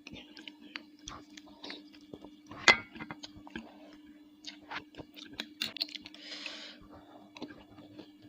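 Close-up chewing and mouth sounds of someone eating bakso meatball soup, with scattered sharp clicks, the loudest about two and a half seconds in. A low steady hum runs underneath.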